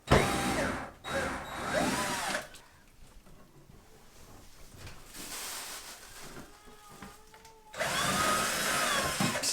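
Power drill run in three short bursts, the motor's pitch rising and falling with each squeeze of the trigger; the first two come close together at the start and the third near the end.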